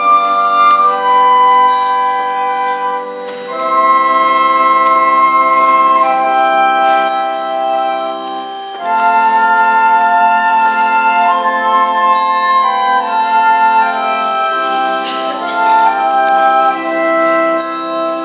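Organ playing slow, sustained chords that change every few seconds.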